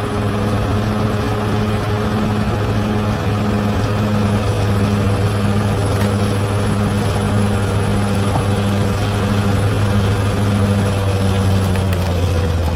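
Large bulldozer's diesel engine running under steady load: a deep, constant drone with a regular pulsing throb, about one and a half beats a second.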